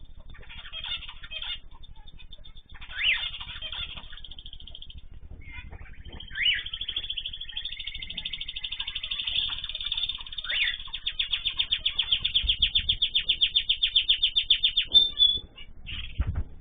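Small cage birds chirping and singing: scattered short rising chirps, then a long fast trill of quickly repeated notes that lasts about seven seconds and stops suddenly.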